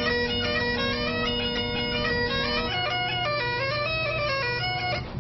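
Bagpipes playing a tune: a moving chanter melody over a steady drone. The drone drops to a lower note partway through, and the playing breaks off just before the end.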